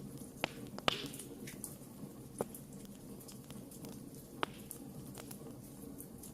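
Wood fire crackling: scattered sharp pops and snaps over a steady low rumble of burning, with a short hiss about a second in.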